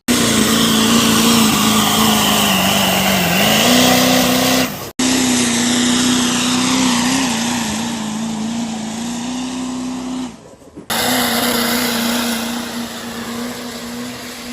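Truck engine running hard at high, fairly steady revs, as under load, in three stretches joined by abrupt cuts. The pitch dips briefly and comes back up about 3 seconds in.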